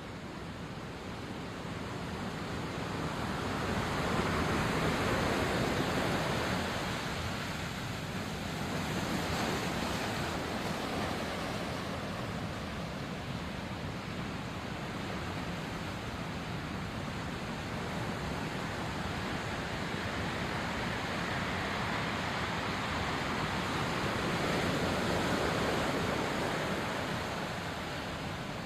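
Sea waves washing onto the shore, a steady rushing wash that swells and eases every few seconds, loudest a few seconds in and again near the end.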